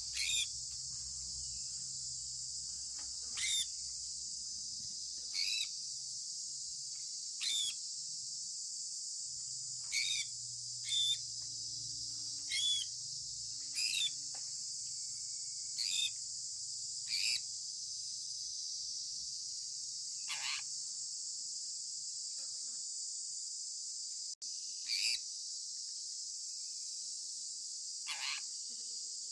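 Sun conure parrot giving short, sharp chirps about every one to two seconds, two of them longer downward-sweeping calls, over a steady high hiss.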